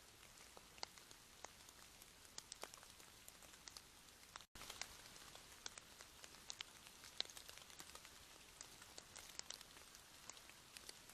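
Faint rain falling on a surface: a soft steady hiss with irregular drops ticking through it, broken by a very brief gap about halfway through.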